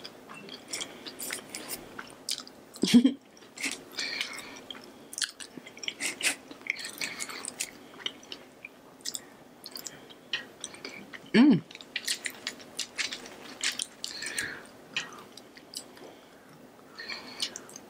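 A person chewing food with the mouth closed, with many small crunches and wet mouth clicks. A brief hum from the throat comes twice, about three seconds in and near the middle.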